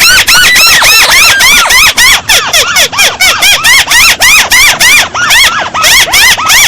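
Paddy-field crake (burung tikusan sawah) calling loudly: a fast, unbroken series of squealing notes, each rising then falling in pitch, about four a second. It is a looped lure recording used to call the bird in.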